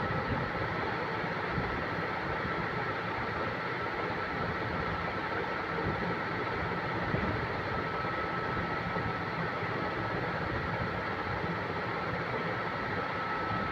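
A machine running steadily, a constant rushing noise with a steady high whine held throughout.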